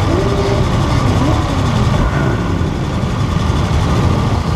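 Motorcycle engines idling steadily close by, amid a gathering of many motorcycles, with faint voices mixed in.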